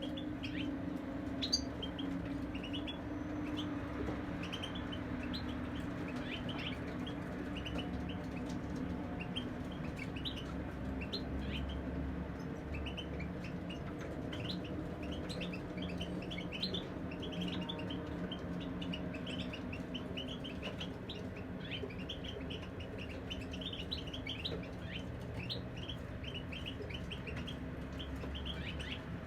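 Caged European goldfinches singing: a continuous run of quick, high chirps and twittering trills, over a steady low hum.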